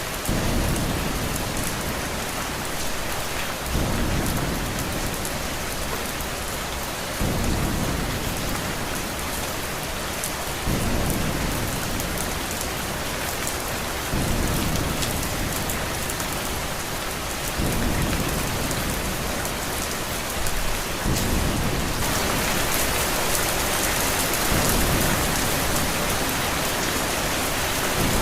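Steady rain with a low thunder rumble that rises suddenly and fades, returning about every three and a half seconds. The rain grows heavier about two-thirds of the way through.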